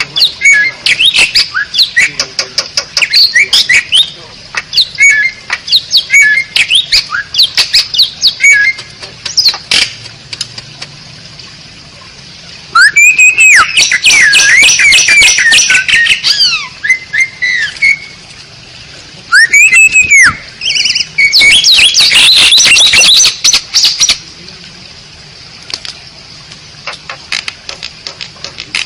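Asian pied starling (jalak suren) singing: a run of sharp clicks and short whistled notes, broken by loud bursts of dense, harsh chattering song with rising and falling whistles, the first about halfway through and more a few seconds later.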